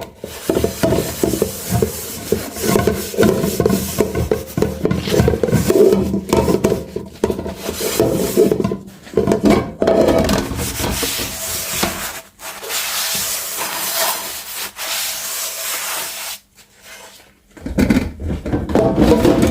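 Dishes being scrubbed by hand: a run of irregular rubbing, scraping strokes. In the second half the sound thins to a higher hiss for a few seconds.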